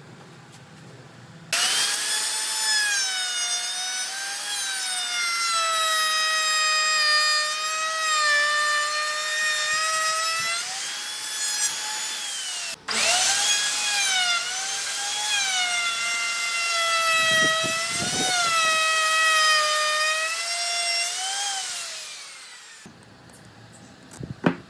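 Electric power tool cutting wood: a loud, high whine that sags in pitch as the cut loads it and rises again when it eases. It breaks off for an instant about halfway, then winds down near the end.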